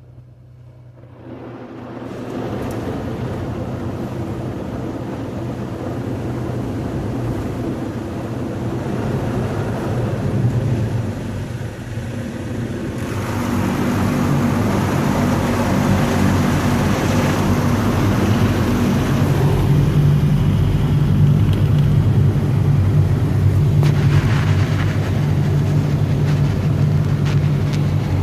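Automatic car wash equipment running, a steady rushing noise over a low hum. It starts up about a second in and grows louder and hissier about halfway through.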